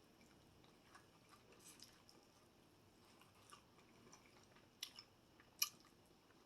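Faint close-up chewing of crispy fried food, with soft wet crackles and two sharper crunches about five seconds in.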